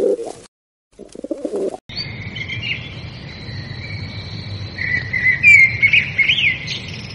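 A pigeon cooing in low, pulsing calls, cut off twice, then from about two seconds in small birds chirping in high trills over a steady low background hum, busiest and loudest near the end.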